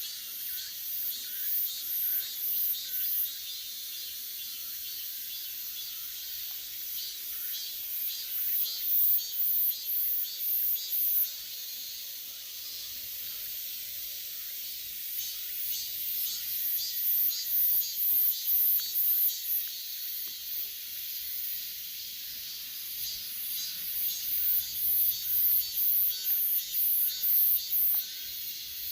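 Cicadas calling in summer: a steady high-pitched drone with loud pulsing phrases of a few seconds each, about two to three pulses a second, rising and falling four times.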